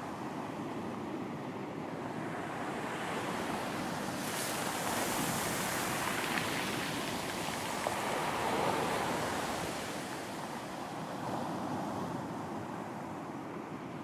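Surf on a beach: a wave builds and breaks with a rushing hiss about four seconds in, then washes back and eases off after about ten seconds.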